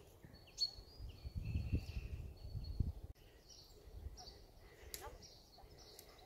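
Forest ambience with birds chirping in short high notes. A low rumbling noise fills the first three seconds and stops abruptly.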